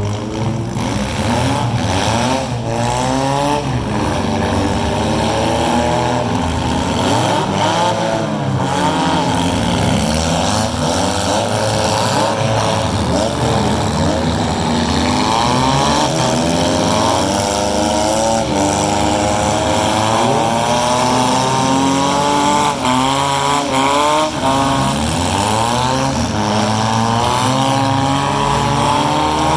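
Several four-cylinder demolition derby cars' engines revving up and down over one another, pitches rising and falling throughout, with a few sharp bangs scattered through.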